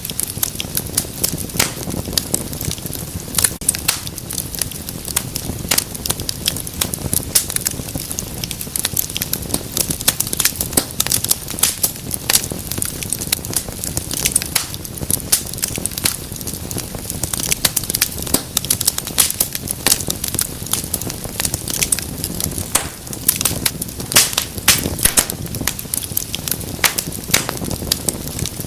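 Wood fire burning in a fireplace: a steady low rumble of flames under dense, irregular crackles and pops.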